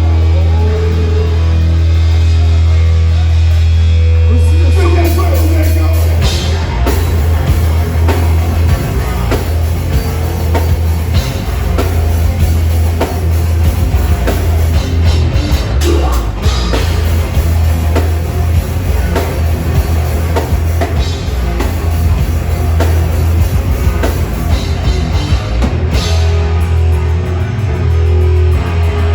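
Heavy metal band playing live and loud: a low chord rings out, held for about six seconds, then the drums and full band come in with a fast, dense beat.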